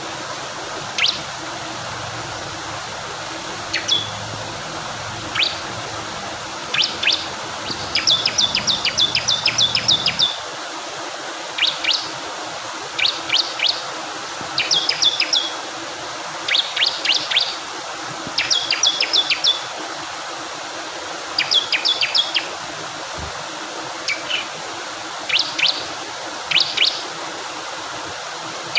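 Bar-winged prinia (ciblek kristal) singing: sharp, high chirping notes, some on their own and some in quick runs of up to about a dozen. Behind it is a steady rush of flowing water.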